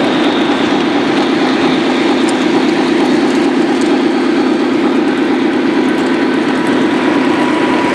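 Model train running on a layout track: a steady rumbling whir of motor and wheels.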